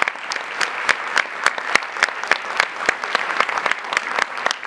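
Audience applauding, with a few claps close by standing out above the crowd.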